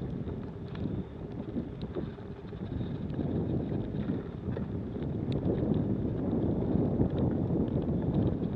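Snowstorm wind buffeting the microphone: a steady low rumble that rises and falls.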